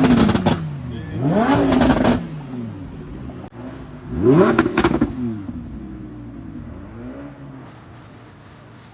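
Car engine revved hard three times, each rev rising in pitch and breaking into a burst of sharp exhaust pops and crackles before falling back, then settling and fading.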